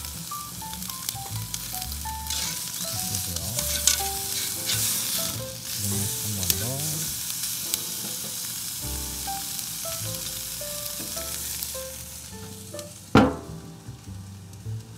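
A ribeye steak sizzling on the hot grates of a propane gas grill. About 13 seconds in, the grill's metal lid is shut with one loud clank, and the sizzle is then muffled.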